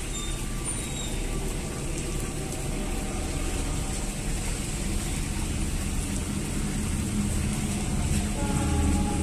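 Diesel-hauled passenger train climbing a grade: a steady low rumble from the locomotive working uphill. Near the end a louder engine note comes in.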